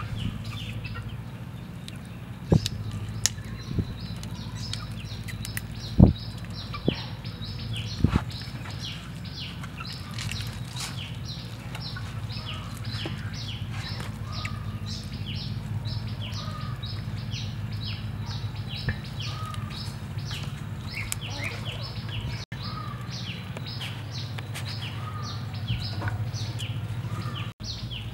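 Birds chirping: short high chirps repeating about three times a second over a low steady hum. A few sharp knocks in the first eight seconds from knives cutting through raw quail.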